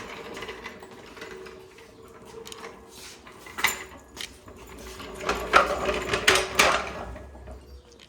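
Clattering and knocking of metal parts and tools being handled during work on a side-by-side's A-arm guard, loudest in a burst of knocks past the middle, over a faint steady hum.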